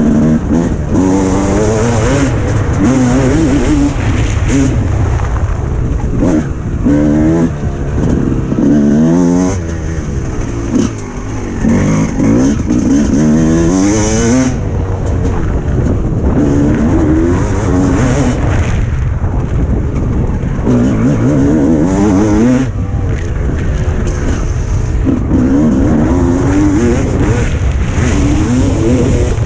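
300cc two-stroke Suzuki RM motocross bike's engine revving hard and falling off again and again as it is ridden, its pitch climbing through each burst of throttle, about seven or eight times.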